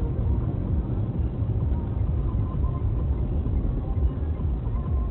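Steady low rumble of a car driving, its engine and road noise heard through a dashboard camera's microphone.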